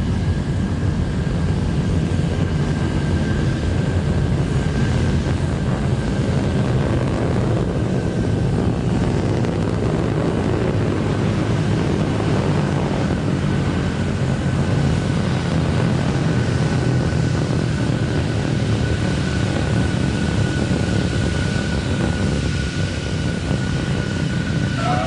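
Terran 1 rocket's first-stage engines, nine methane-oxygen Aeon 1 engines, running at full thrust during ascent: a loud, steady, deep rumble with a thin steady tone above it.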